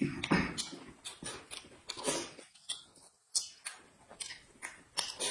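A person chewing and slurping braised pork, with short, wet mouth noises coming in quick, irregular bursts.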